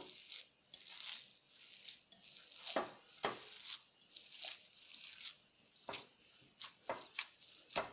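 Bare hands kneading and mashing raw chicken mince with spices, making irregular soft squelching strokes, with a few sharper ones about three seconds in and towards the end.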